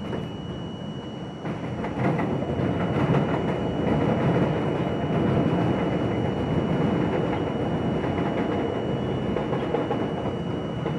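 R42 subway train running along the track, a steady rumble with clicks from the wheels over the rails, growing louder about two seconds in.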